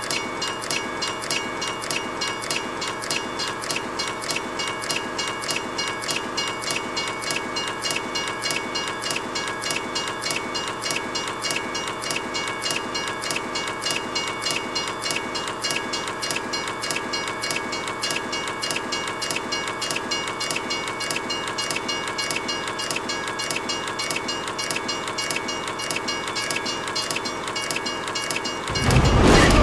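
Train rolling along the track, with a steady rhythmic clatter of wheels on rails and several steady high tones over it. About a second before the end, a much louder, deeper blast cuts in.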